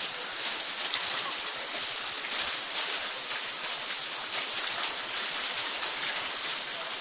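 Heavy rain from the onset of Hurricane Irma pouring down steadily as a dense, even hiss.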